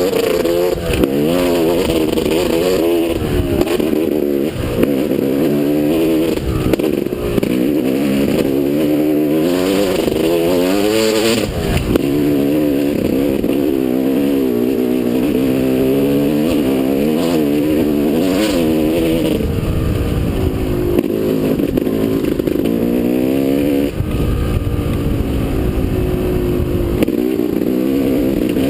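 Motocross motorcycle engine running hard, its pitch rising and falling over and over as the throttle opens and closes through the gears. There is a single knock about eleven and a half seconds in.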